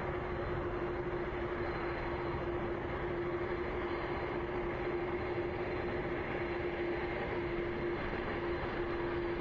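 Jet aircraft engines running steadily: a constant rushing noise with a steady hum and a faint high whine.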